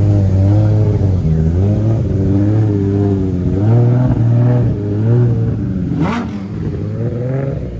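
Car engine revving again and again, its pitch rising and falling in repeated pulls. About six seconds in there is a brief sharp sweep up and down in pitch.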